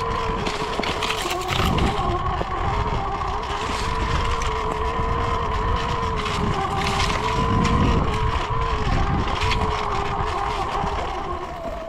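Surron Ultra Bee electric dirt bike riding on a trail: a steady motor whine that wavers a little in pitch with speed, over tyre, chain and bump noise. It fades near the end.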